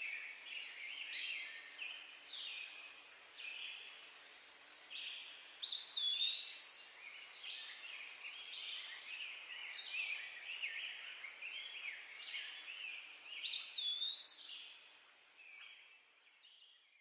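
Several songbirds singing together in woodland, a morning chorus of quick overlapping chirps and trills, one song repeating a short phrase every few seconds. It fades out near the end.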